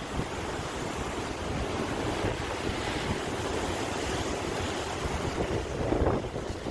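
Sea waves breaking and washing in a steady rush of surf, with wind buffeting the microphone; a wave swells a little louder near the end.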